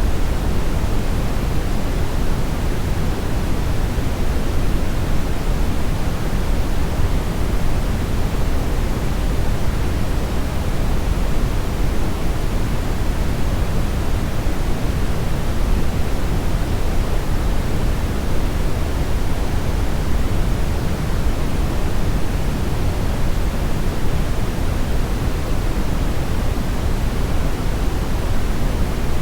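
Steady brownish noise: a continuous, even hiss weighted heavily toward the low end, deep and without any change.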